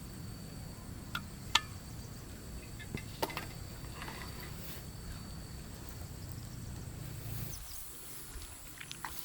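Insects droning in steady high tones over a low steady rumble that cuts off about seven and a half seconds in. A few sharp clicks or knocks sound through it, the loudest about a second and a half in.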